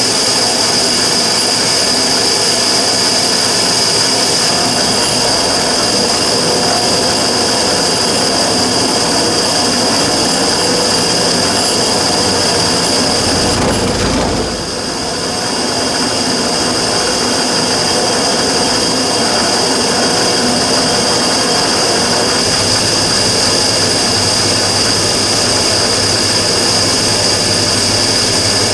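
Immersion tube burner running with a steady loud roar and a high whistling tone on top, the abnormal noise the recording is about. About halfway through, the sound briefly drops and a low rumble swells, then the steady roar and whistle return.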